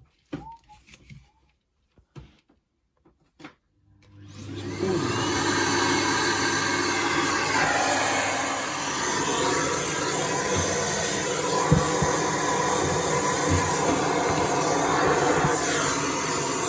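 Miele C3 vacuum cleaner switched on about four seconds in, its motor spinning up to a steady run, used for de-fluffing the dryer's insides; the tone shifts now and then as the nozzle is moved. A few light clicks of handling come before it starts.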